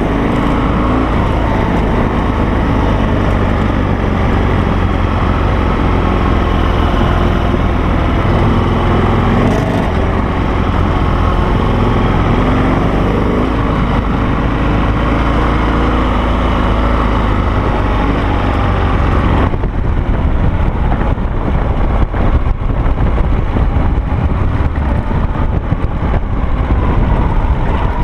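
Harley-Davidson Sportster air-cooled V-twin engine of a Carducci SC3 Adventure dual sport motorcycle being ridden, its revs rising and falling. About two-thirds through, the engine note drops to a lower, choppier running.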